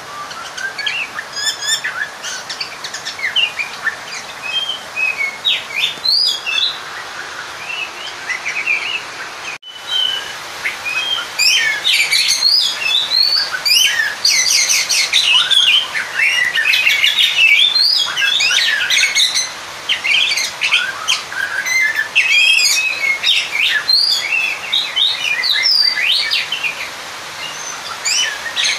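Oriental magpie-robin (kacer) singing a fast, varied string of chirps, trills and whistled glides, with a brief break about ten seconds in and louder, denser song after it. This is the bird's challenge song calling out a rival, used to make other male kacer agitated.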